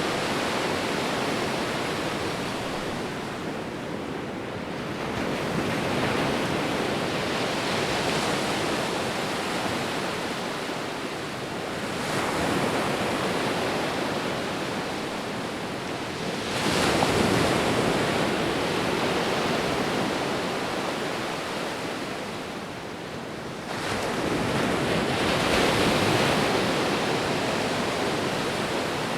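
Ocean waves breaking and washing on a shore, a continuous surf wash that swells with each new wave every five or six seconds.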